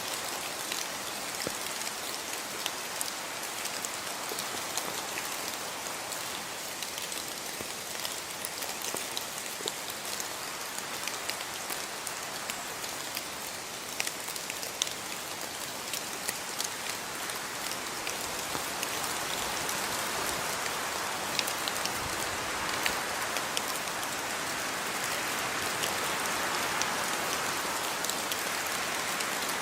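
Steady rain falling, a continuous hiss dotted with the sharp ticks of individual drops hitting a surface; it swells slightly louder in the second half.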